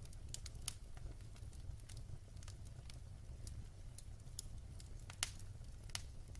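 Wood fire burning in a fireplace, crackling: irregular sharp pops and snaps over a low steady rumble of the flames, with one louder pop about five seconds in.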